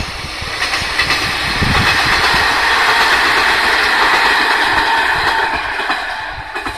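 A JR HB-E300 series hybrid train passing close by, its wheels clattering over the rail joints. The noise builds, is loudest in the middle and fades away near the end.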